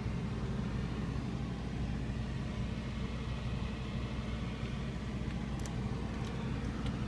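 Heavy diesel truck engine idling steadily, a low even hum.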